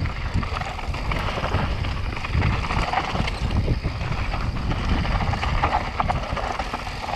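Mountain bike running fast down a rough, dusty trail: the tyres crunch over dirt and stones while the frame and chain rattle and knock unevenly. Wind rumbles on the microphone throughout.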